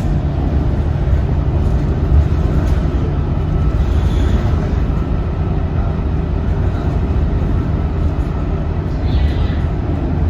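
Scania K230UB bus's five-cylinder diesel engine running steadily under way: a constant low drone that holds an even level, with no gear change or stop.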